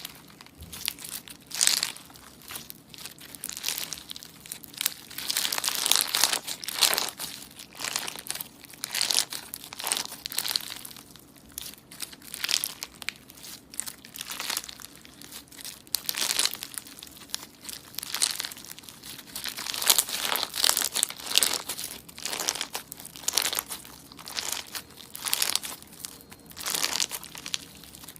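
Slime being squeezed and worked by hand, giving a steady run of irregular crackly, crinkly bursts.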